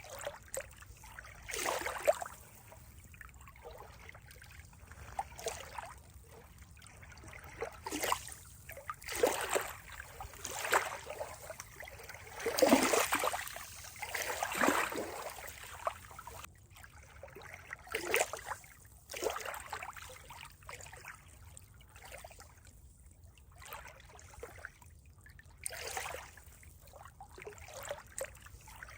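Water trickling and splashing in irregular surges every second or two, the strongest a little before the middle.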